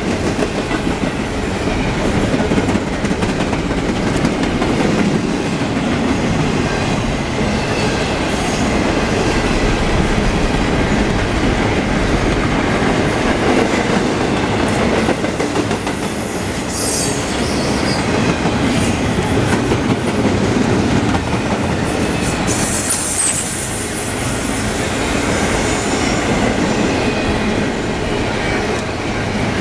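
Double-stack intermodal container well cars of a freight train rolling past with a steady rumble and rattle of steel wheels on the rails. Brief high-pitched wheel squeals come about 17 and 23 seconds in.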